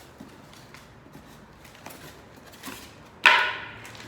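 Faint handling clicks, then one sharp knock of a hard object about three seconds in, with a short ringing tail.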